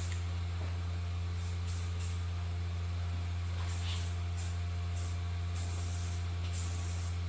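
Aerosol spray-paint can (Duplicolor) hissing in a series of short bursts, and a few longer passes near the end, as paint is sprayed onto the parts. A steady low electrical hum runs underneath.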